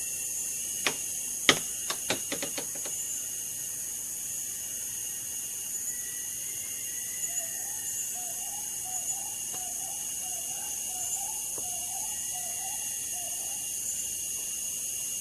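Tropical rainforest insect chorus: crickets and other insects shrilling steadily in several high pitches. A bird repeats a warbling call over and over for about seven seconds in the middle, and a few sharp clicks come in the first three seconds.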